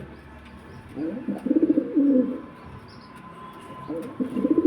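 Homing pigeon cooing: two rolling, throbbing coos, one starting about a second in and another near the end.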